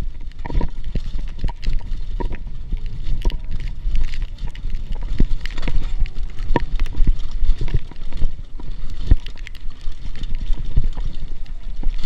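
Trek Marlin hardtail mountain bike riding down a rough, wet downhill trail: constant rattling, with frequent irregular knocks and jolts over a steady low rumble.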